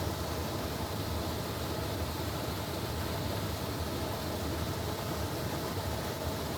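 Steady low rumble with a constant hiss, unchanging throughout.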